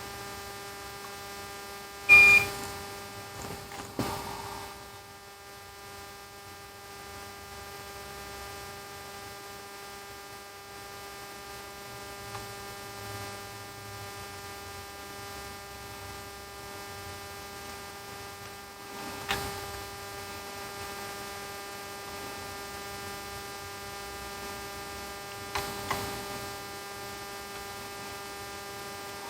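Steady electrical hum from bench equipment, with a few brief clicks and knocks, the loudest about two seconds in.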